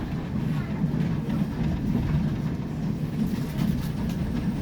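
Railway carriage running along the track, a steady low rumble with faint wheel-on-rail clicks, heard from on board the train.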